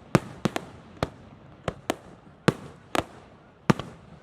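Fireworks going off: a rapid, irregular series of about a dozen sharp bangs, some in quick pairs, each trailing off briefly.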